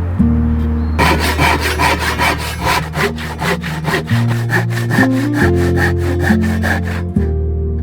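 Hand saw cutting through wood in quick, even strokes, about four or five a second, starting about a second in and stopping shortly before the end, over soft background music.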